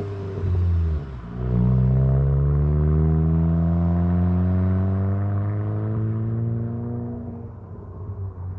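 Volkswagen MK8 GTI's turbocharged four-cylinder engine heard through a muffler-delete exhaust with the stock downpipe, accelerating. The pitch drops at a gear change about a second in, then climbs steadily through the next gear for about six seconds, and the sound fades near the end.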